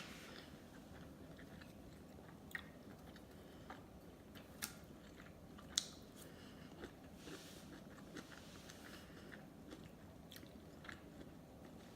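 Close-miked eating sounds: someone chewing a big mouthful of sushi, with scattered wet clicks and smacks of the mouth, the loudest about six seconds in.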